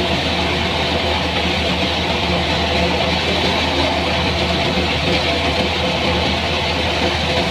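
An engine-driven machine running steadily at a constant speed, with a deep hum and a rushing hiss over it.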